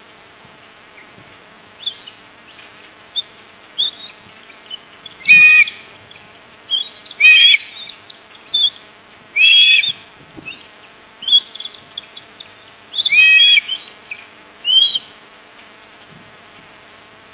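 Bird calls: a run of short, high chirps with five louder, fuller calls between them, over a steady faint buzz.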